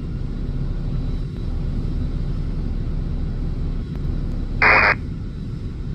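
Airbus A380 jet engines rumbling steadily, with a brief crackle of air traffic control radio near the end.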